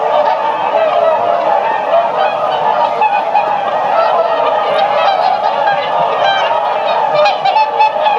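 A flock of swans honking continuously, with many calls overlapping and no break.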